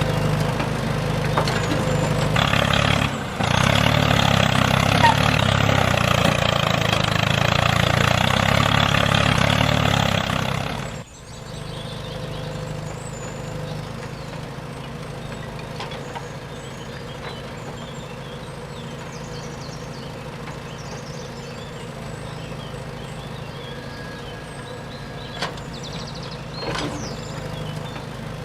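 A mini tractor's engine running steadily, then cutting off suddenly about eleven seconds in, leaving a quieter steady hum.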